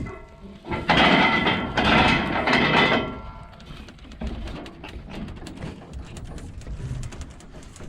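Metal access door or panel on a combine being opened, a loud scraping rattle lasting about two seconds, followed by light clicks and knocks on the machine's metal.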